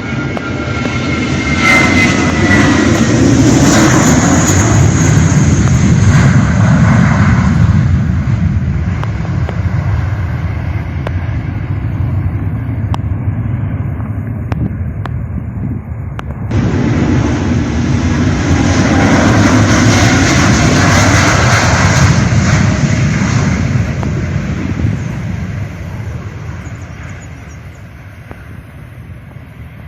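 Jet airliner engines passing close by, rising to a loud rumble and then fading, with a high engine whine falling in pitch at first. After a sudden cut about halfway through, a second jet pass swells and fades again.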